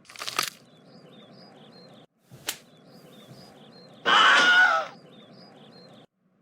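A steady background of small birds chirping. A short burst of noise comes at the start, a sharp click about two and a half seconds in, and a loud, harsh noise of just under a second a little past the middle. The background cuts off near the end.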